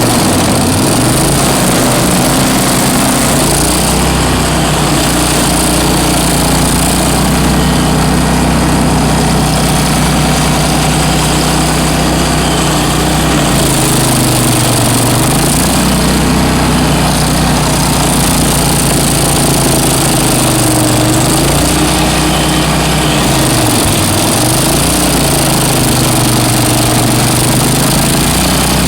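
Bandit ZT1844 stump grinder's engine running loud and steady, its note sagging briefly about five times and picking back up.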